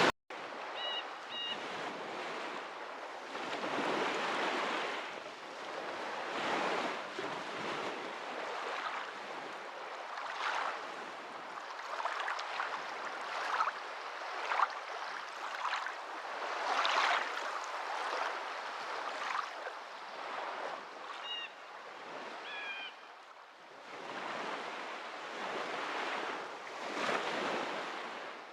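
Moving water washing in uneven surges that swell and fade every second or two, with a few short high chirps about a second in and again around twenty-two seconds.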